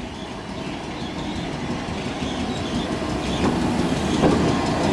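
British Rail Class 411 4-CEP slam-door electric unit rolling past, its wheels clicking over the rail joints, with a faint wheel squeal early on. The noise grows steadily louder, with sharper clicks about three and a half and four seconds in.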